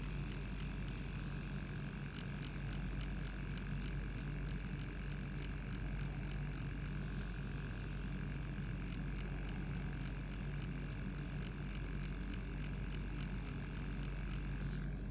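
Lip-tattoo (permanent-makeup) machine running with a steady low hum while its needle makes a light, even crackle of quick clicks on the lip skin. It is the smooth cracking that the artist takes for the sign of correct needle depth and a well-tuned machine.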